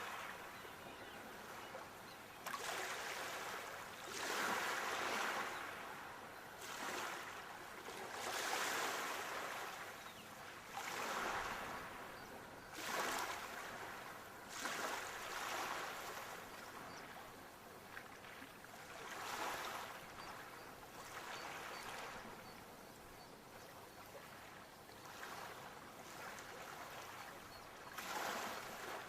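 Sea waves breaking and washing in, a surge of surf every few seconds, rising and falling irregularly.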